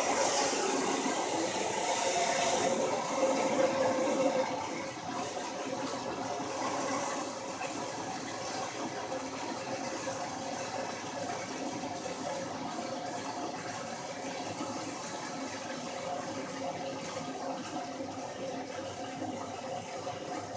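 Water moving and sloshing in the tub of an antique hand-rocked washing machine, a steady rush of water noise that is louder for the first four seconds, then settles.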